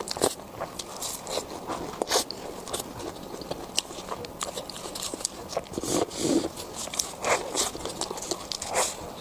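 Crispy fried food being bitten and chewed, with a string of sharp, irregular crunches.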